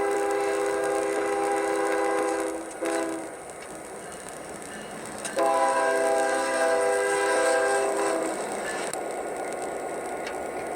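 Recorded diesel locomotive horn sounding the grade-crossing signal, played through a small speaker: a long blast, a brief short one, then another long blast that fades out, each a chord of several steady notes.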